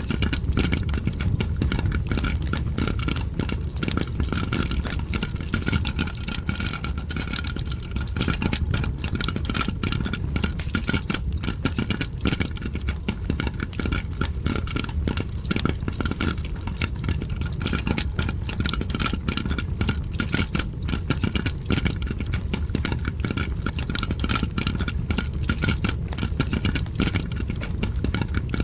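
Popcorn popping with a crackling fire: a dense run of quick pops and crackles over a steady low rumble.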